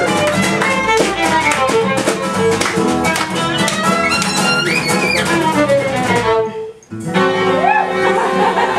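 A live acoustic band plays an instrumental passage, violin over strummed and plucked guitars. The band stops short for about half a second near the seven-second mark, then comes back in.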